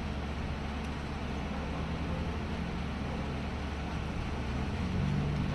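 Steady low mechanical hum under an even background hiss.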